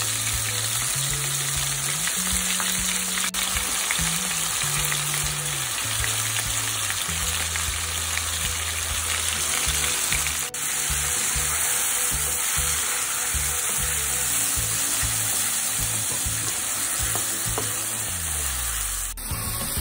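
Diced raw chicken sizzling in hot oil in a nonstick frying pan, a steady crackling hiss, with a low bass line of background music underneath.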